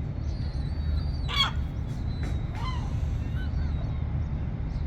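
A seagull calls once, short and loud, about a second in, and gives a fainter call at around two and a half seconds, over a steady low rumble.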